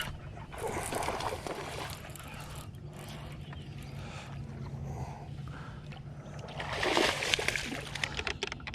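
Water splashing beside a boat as a bass is fought and landed, in two bursts, one about a second in and a louder one near seven seconds, over a steady low hum.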